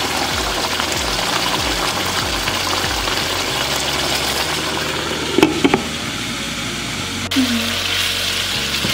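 Chicken karahi curry bubbling and sizzling in a pan, with a few sharp clacks about five and a half seconds in. Near the end, the thickened curry sizzles as a wooden spatula stirs it.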